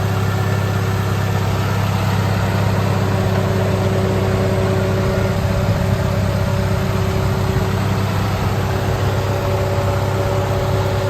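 2008 Daihatsu Copen's tuned 660 cc turbocharged four-cylinder engine idling steadily.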